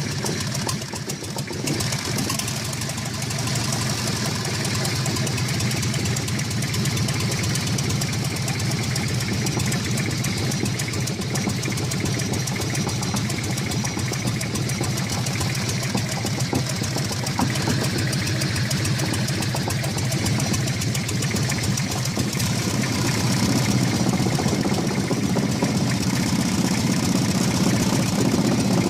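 Used Toyota 5L four-cylinder diesel engine running steadily at idle with a rapid clatter, getting a little louder in the last few seconds.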